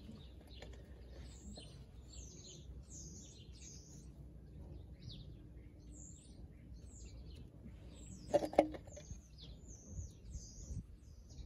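Small birds chirping and twittering repeatedly in short high calls, with a quick pair of sharp clicks about eight and a half seconds in.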